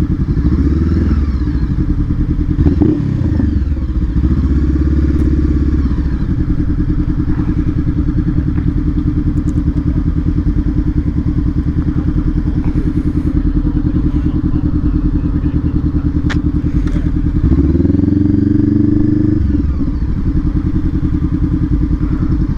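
Honda CBR500R's parallel-twin engine running at low revs, with its revs rising and falling a few times, most clearly near the start and again about 18 seconds in.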